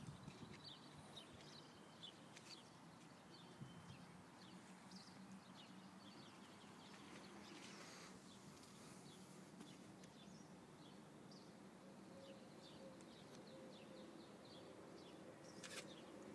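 Near silence: faint outdoor ambience with scattered small bird chirps over a low steady hum.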